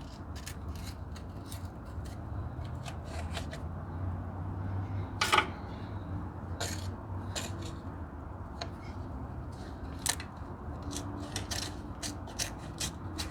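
Hand tools clicking and clinking against metal engine parts in short irregular ticks, with one louder ringing metal clank about five seconds in, over a low steady hum.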